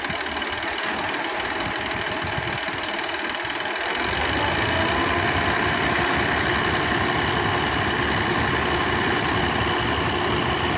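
Combine harvester running steadily while harvesting wheat; about four seconds in the sound grows louder and deeper, then holds steady.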